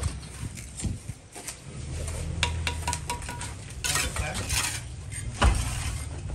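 Metal clinks and scraping from tools and materials being handled during house repair work, with a brief ringing clank a little past halfway and a heavy thump about five and a half seconds in.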